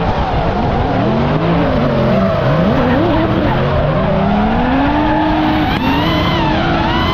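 Two drift cars, at least one V8-powered, sliding in tandem: their engines rev up and down independently at high revs while the tyres squeal and skid.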